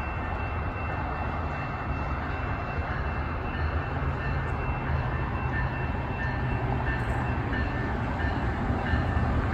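Metrolink diesel commuter train's locomotive rumbling as it approaches along the platform, growing gradually louder.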